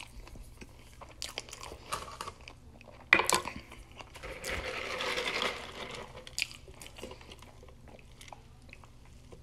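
Close-miked chewing and crunching of a fried chicken sandwich, with small wet mouth clicks throughout and a louder crunch about three seconds in.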